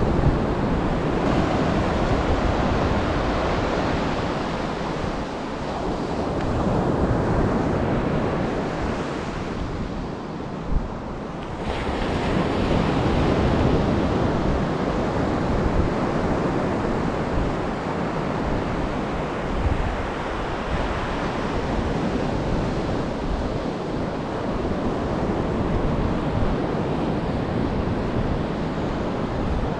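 Atlantic surf breaking and washing up the beach in a steady wash that swells and eases, with a short lull about ten seconds in before the next wave builds. Wind buffets the microphone throughout.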